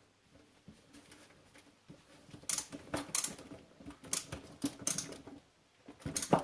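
Hand thread tap being turned in a metal hole with a tap wrench: an irregular run of sharp metallic clicks and crunches that starts about two and a half seconds in, with the loudest click near the end.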